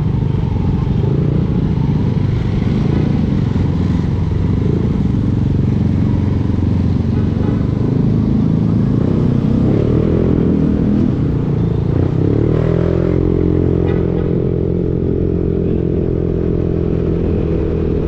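Yamaha Aerox V2 scooter's 155 cc single-cylinder engine running through a JVT V3 aftermarket exhaust while riding. The engine note rises and falls a little past the middle, then holds steady.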